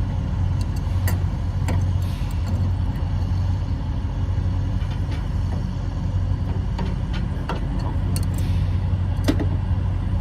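Semi-truck diesel engine idling steadily, with a few sharp clicks and clinks over it.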